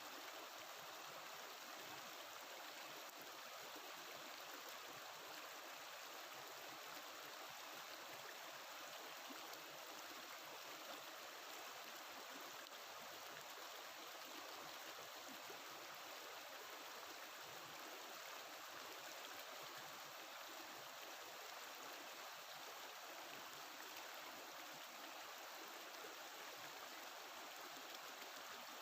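Faint, steady babbling of a flowing mountain river, an even rush of water that never breaks off.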